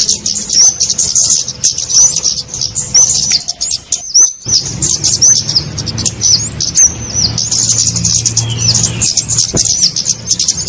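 Flowerpecker (kemade, cabe-cabean) calls played as a bird-lure recording: a dense stream of rapid, thin, high chirps, with a low hum underneath. Everything drops out briefly about four seconds in.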